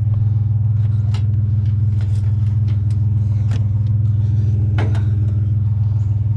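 Pickup truck engine idling with a steady low rumble, with a few sharp knocks about a second apart to a second and a half apart as metal scrap pieces are handled.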